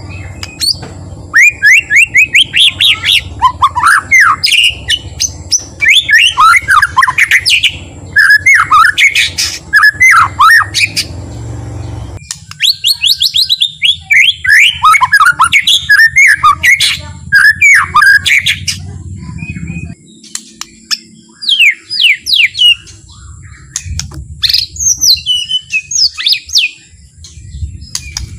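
White-rumped shama (murai batu) singing: runs of fast, sliding whistled notes and chattering phrases, with short pauses between phrases.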